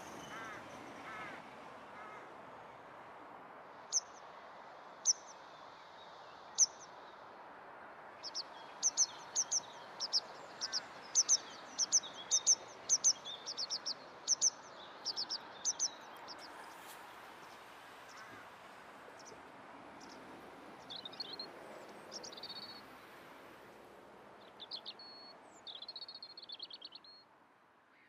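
Wild songbirds chirping over a steady outdoor background: a few sharp high notes, then a quick run of chirps through the middle, and short trilled phrases near the end.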